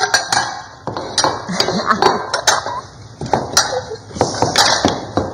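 Dishes and cutlery clinking and knocking as plates and utensils are handled and set down in a kitchen, with a few quick clatters spread through.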